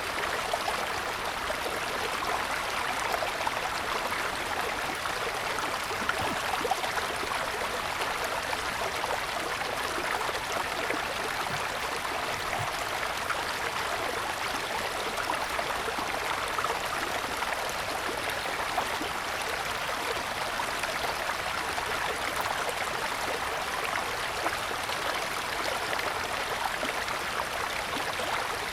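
Mountain stream flowing steadily over stones: a constant, even rush of running water.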